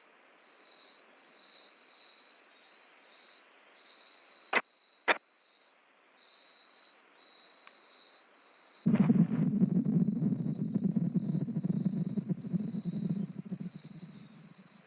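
Insects chirping steadily, with two sharp clicks about four and a half and five seconds in. Then, about nine seconds in, a much louder low, fluttering rumble starts and keeps going.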